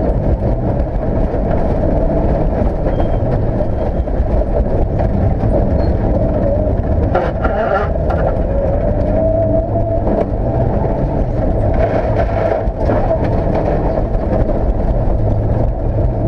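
Rally car engine running hard at stage speed, heard from inside the cockpit. The engine note rises and falls through the run over steady low road and tyre rumble.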